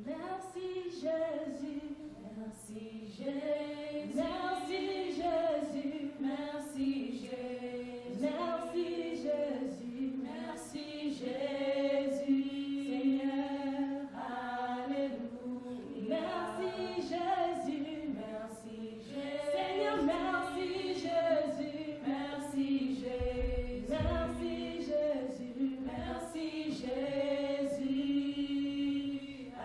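Choir singing a hymn, with many voices together.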